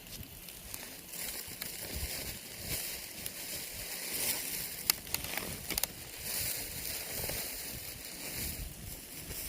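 Wood campfire crackling, a steady hiss with scattered sharp pops and snaps.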